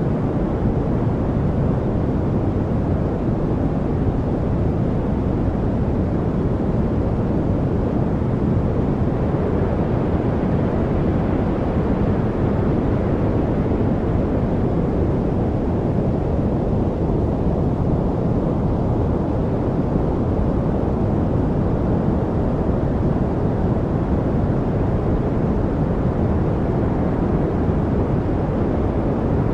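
Steady, unbroken noise with a deep rushing sound, most of it low and little hiss at the top, darker than true white noise. It holds an even level, with no birds or other separate sounds standing out.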